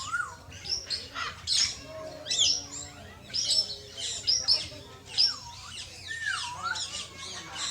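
Parrots chirping and chattering: many quick, overlapping chirps and whistles, with a couple of lower swooping whistles about five and six and a half seconds in.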